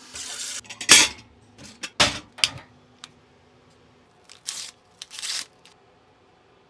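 Handling noises: a series of short, sharp rustles and scrapes, the loudest about a second in.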